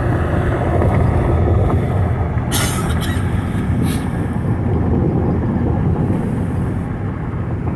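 Steady road and engine noise inside a moving car's cabin, a low rumble. There are two brief bursts of hiss about two and a half and four seconds in.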